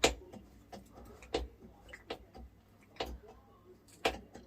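Screwdriver tightening the clamp on a dishwasher drain hose: four sharp clicks spaced about a second apart, with fainter ticks between.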